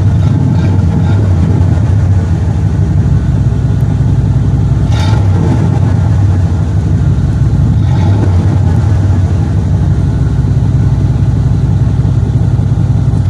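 1995 Chevy K1500 Z71 pickup's exhaust, loud and running steadily with the engine at a near-constant speed.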